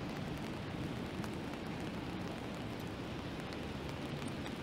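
Steady rain falling, with scattered drops ticking on an umbrella held overhead and a low, steady rumble underneath.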